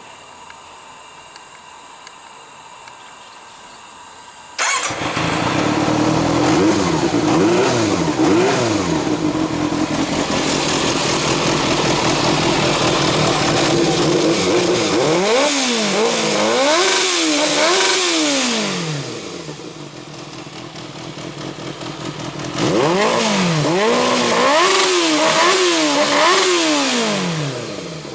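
Yamaha XJR400R's air-cooled inline-four engine catching about five seconds in and then idling, blipped up in revs in three spells of rising and falling pitch, the last ending near the end.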